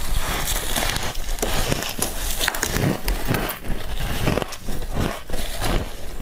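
A mouthful of frost being chewed, with dense, irregular crunching and crackling.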